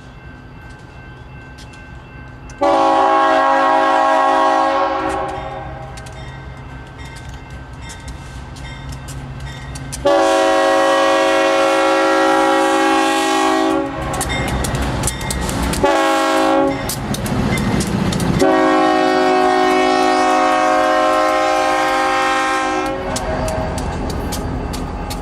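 Freight train diesel locomotive's multi-note air horn sounding the grade crossing signal: two long blasts, a short one, then a long one. Engine rumble and wheel clatter on the rails come between the blasts.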